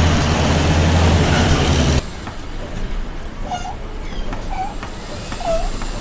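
A loud machine rumble with a low hum, cut off abruptly about two seconds in. After the cut, a short squeak repeats about once a second over a quieter background.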